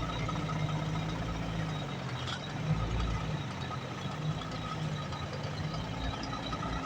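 Heavy diesel engine of a tractor-trailer running steadily at low revs, a low even hum.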